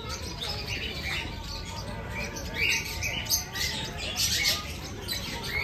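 Birds chirping and squawking in short, repeated high calls over a low background murmur.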